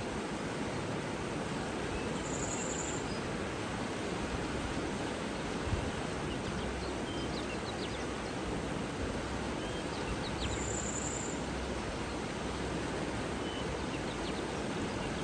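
Steady rush of flowing water, with faint, short high bird chirps scattered through the second half.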